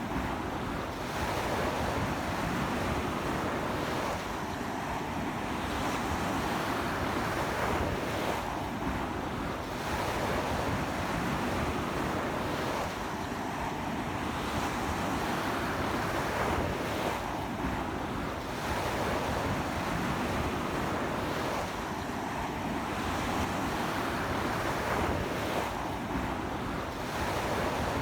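Strong surf breaking continuously on a beach, the wash rising and easing every few seconds, with strong sea wind buffeting the microphone.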